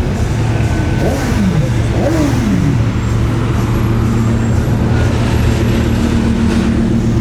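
A car engine blipped twice, about a second apart, the revs falling back each time to a steady idle that carries on to the end.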